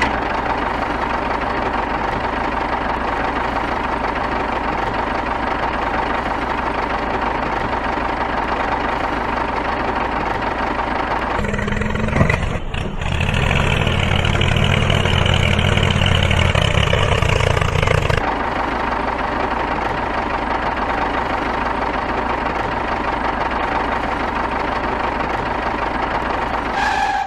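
An engine running steadily at idle, with a steady whine. About eleven seconds in it turns deeper and louder for some seven seconds, then settles back to the idle.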